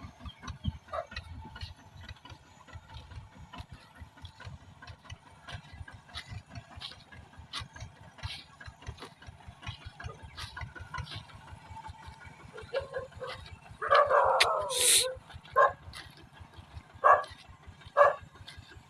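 A small tractor engine idles with a quick, steady knocking beat. About fourteen seconds in, a dog barks loudly, then barks three more times in short single barks near the end.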